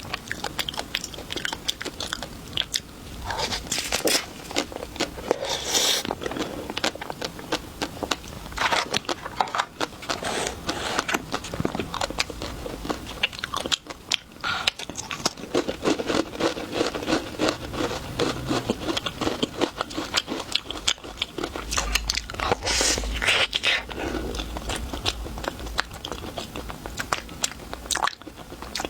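Close-miked biting and chewing of crunchy chocolate treats, with repeated sharp crackling crunches and wet chewing.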